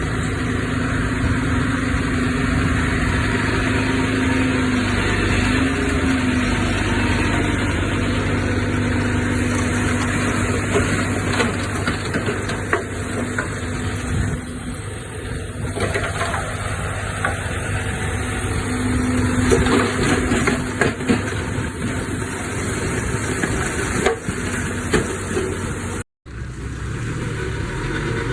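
Heavy diesel earthmoving equipment running steadily, with scattered metallic knocks and clanks over it. The sound drops out completely for a split second near the end, then the engine noise carries on.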